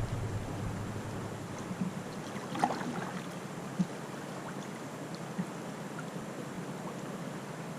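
Steady rush of river water around a kayak, with a few faint light knocks.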